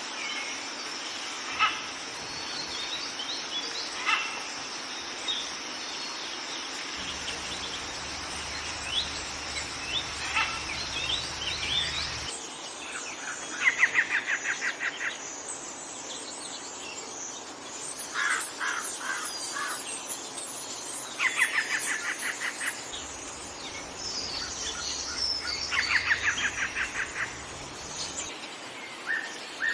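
Wild birds singing and chirping, with several short calls early on and then repeated rapid trills of about a second each, four times in the second half, over a steady high-pitched drone.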